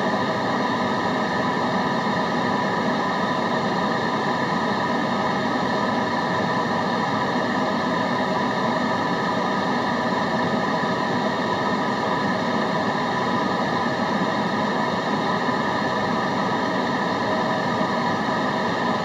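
Steady white noise made for study focus: an even, unchanging rush of noise with a few faint steady tones inside it.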